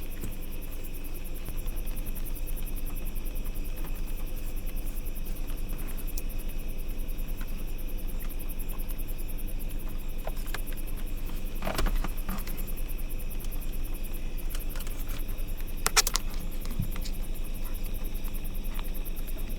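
Night insects chirping steadily over a low hum, with two brief knocks, one about twelve seconds in and the louder one near sixteen seconds.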